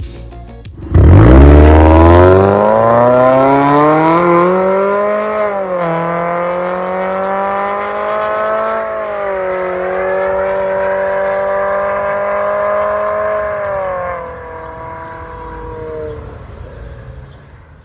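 Toyota Corolla Sport E210's M20A-FKS four-cylinder running through an MS-R valved cat-back exhaust: the exhaust note starts suddenly about a second in and climbs in pitch over a few seconds. It dips briefly, holds a steady high note, then drops in level and fades out near the end.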